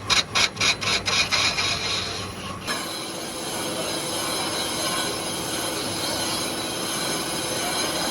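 Metalworking machinery: rapid clattering strikes, about five a second, stop about two and a half seconds in, followed by a steady high metallic squeal.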